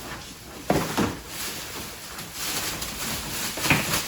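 Packaging being torn open and handled while a rubber cargo mat is unwrapped: two sharp rips or knocks about a second in, then a longer stretch of rustling that grows louder, with another sharp sound near the end.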